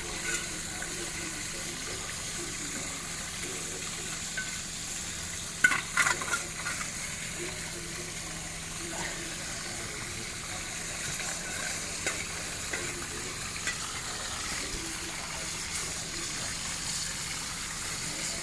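Steady hiss of water escaping from a leaking water pipe, with a short cluster of sharp knocks about six seconds in.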